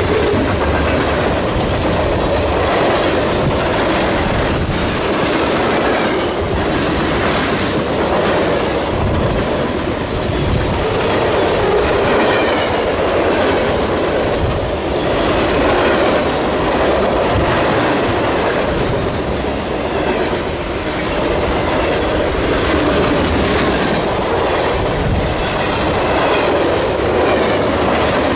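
A freight train's cars rolling past at speed, a continuous rumble with steel wheels clicking and banging over rail joints.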